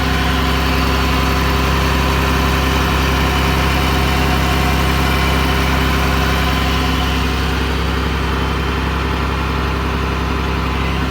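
Cummins turbo diesel engine of a Dodge Ram 5500 truck idling steadily.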